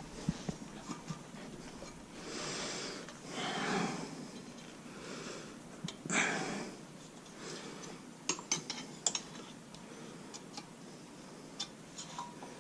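A person's heavy breaths, three of them in the first half, followed by a quick cluster of light clicks a little past the middle.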